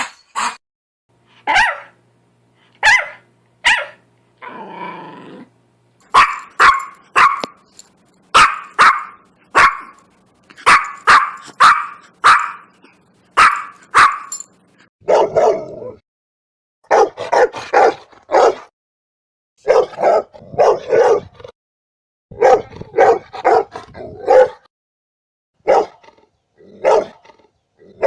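Dogs barking in a long series of short, sharp barks, with a brief growl about five seconds in. About halfway through, the barks turn deeper and come in quick clusters.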